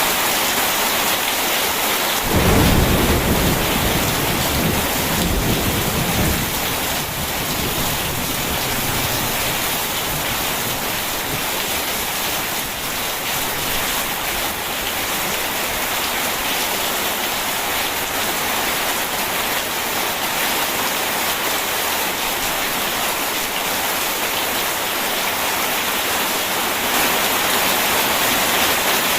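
Steady heavy rain, with a roll of thunder rumbling in about two seconds in and fading out over the next few seconds.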